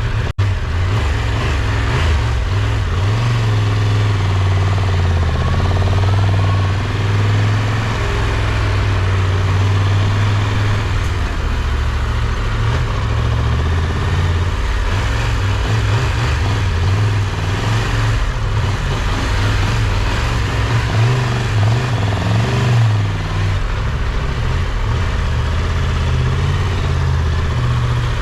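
Triumph Tiger 1200 Rally Pro's inline three-cylinder engine running, its pitch wavering up and down with the throttle, under a steady rush of noise.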